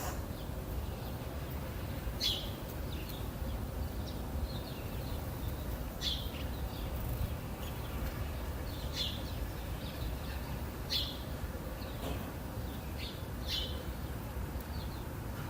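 Songbirds chirping: a short, sharp, downward-sweeping call repeats every two to four seconds, about five times, with softer chirps between, over a steady low background rumble.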